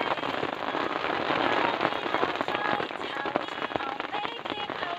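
Heavy rain falling steadily, a dense hiss thick with separate drop hits.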